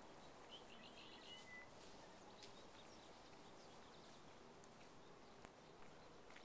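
Near silence, quiet outdoor background, with a short run of quick bird chirps about half a second in and a faint click near the end.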